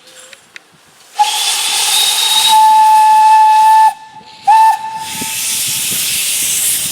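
Steam locomotive whistle: a long blast of about two and a half seconds, a brief break, then a second short blast. A steady hiss of escaping steam follows.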